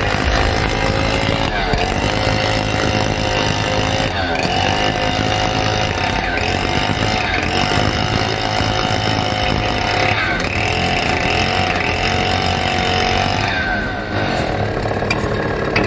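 A small engine running without a break, its pitch stepping up and down every few seconds as it takes and sheds load.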